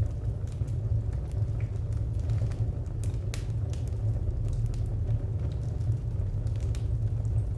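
Wood fire burning, a steady low rumble of flames with scattered sharp crackles and pops from the firewood, a few louder ones about three seconds in.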